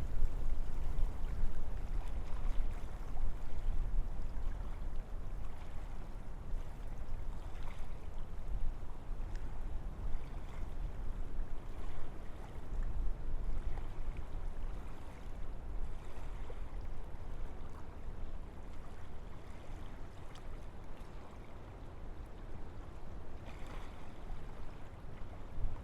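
Wind blowing through forest trees in gusts, a steady rushing with a deep low rumble. It is stronger in the first few seconds and eases off later.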